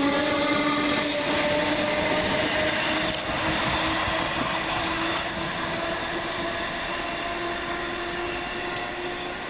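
Electric multiple-unit train running on the line, its traction motors whining in a steady tone that rises slowly in pitch as it gathers speed, with rumbling wheel noise and a few light clicks. The sound fades gradually as the train draws away.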